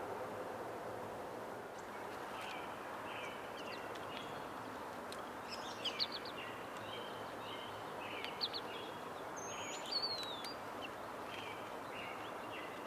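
Small birds chirping in short, repeated notes over a steady background hiss of outdoor noise, with a few louder, sharper chirps in the middle of the stretch.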